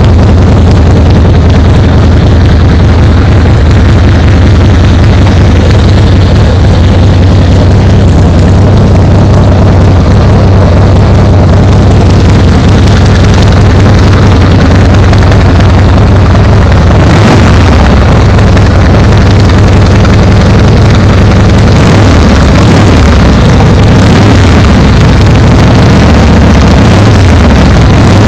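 Harley-Davidson Fat Boy's V-twin engine running at idle, loud and close. The engine note is steady at first and rises and falls unevenly in the later part.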